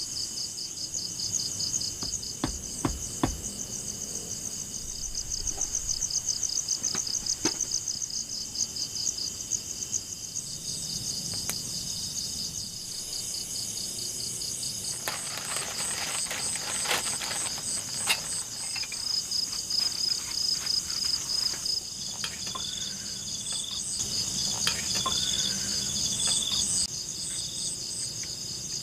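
Insects trilling in a forest: two steady, rapidly pulsing high trills overlapping, with scattered faint clicks and knocks. A shorter, intermittent chirping joins in during the last few seconds.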